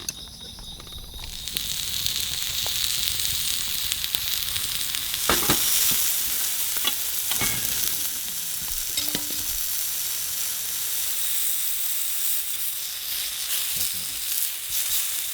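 Meat sizzling on a hot pan over a campfire. The sizzle starts loudly about a second and a half in and keeps going, with a few clicks and knocks of a utensil.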